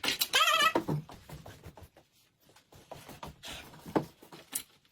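A short wavering, animal-like cry in the first second, followed by faint scattered clicks.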